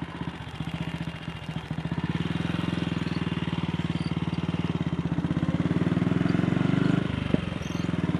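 AJS Model 8 single-cylinder motorcycle engine running at low speed over rough ground. It pulls harder about two seconds in and eases off briefly near the end, with one sharp knock.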